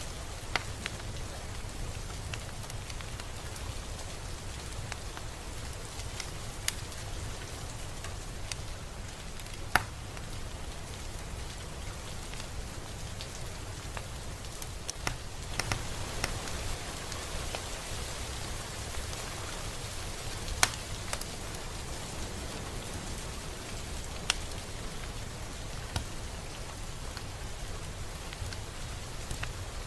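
Steady rain falling, an even hiss with scattered individual drops ticking sharply on a surface, two louder drop hits at about ten and twenty-one seconds in.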